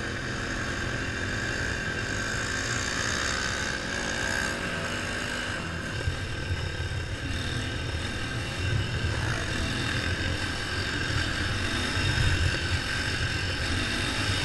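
Small mini bike engine running steadily, with an uneven low rumble underneath.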